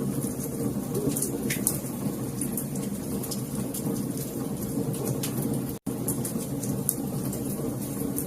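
Wood fire crackling: a steady low rush of burning with many sharp pops and snaps scattered through it. The sound cuts out completely for an instant about six seconds in.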